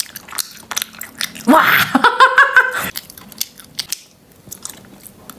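Close mouth sounds of a person eating soft centre-filled gummy candies: biting and chewing, with many short clicks. About one and a half seconds in there is a brief voiced exclamation.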